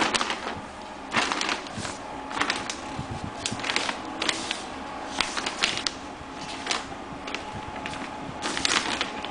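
Pellet stove running: irregular sharp clicks and crackles over a steady fan hum.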